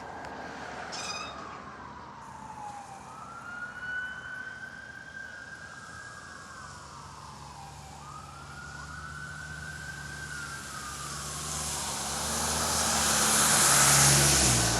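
Fire rescue truck's siren in a slow wail, rising and falling about every four seconds as it approaches. Near the end the truck's engine and tyres grow loud as it passes close by.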